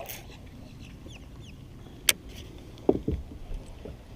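Faint bird calls, a few short falling chirps, over a quiet background. A sharp click comes about two seconds in and a dull knock just before three seconds.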